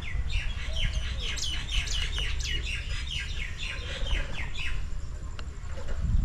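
A bird calling in a fast run of short, high, downward-sweeping chirps, about four a second, which stops about five seconds in. A low rumble runs underneath.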